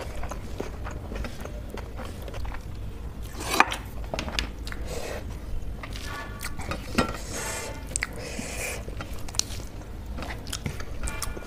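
Close-miked chewing and wet mouth sounds, along with fingers squishing and mixing rice and crumbled soy paneer bhurji on a metal plate. A sharper click comes about three and a half seconds in, and another about seven seconds in.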